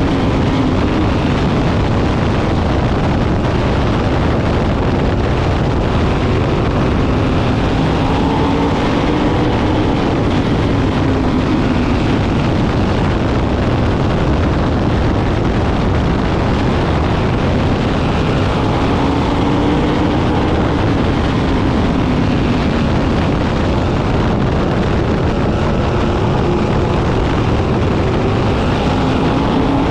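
A field of sprint car engines racing at full throttle, the pitch swelling and falling in waves as the cars come around the track and pass.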